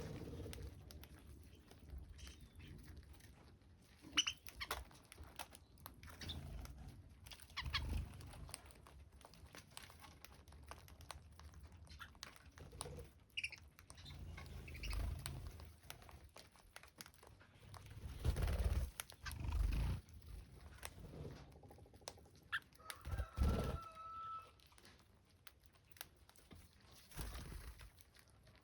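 Birds calling in short, scattered calls amid frequent clicks, knocks and rustling, with several heavier low thumps. About 23 seconds in there is one held whistle-like note lasting over a second.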